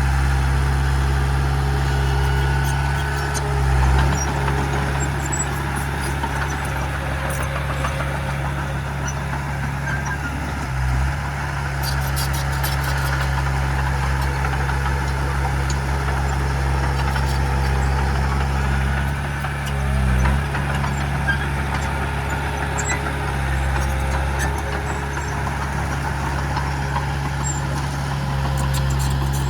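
Heavy diesel engine of earthmoving machinery running steadily at a low, even note, with brief changes in its pitch about four, eleven and twenty seconds in.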